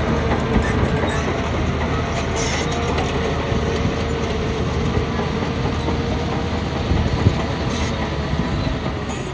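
Crawler bulldozer working: its diesel engine runs steadily with a constant whine while the steel tracks rattle and clank, with one sharper clank about seven seconds in.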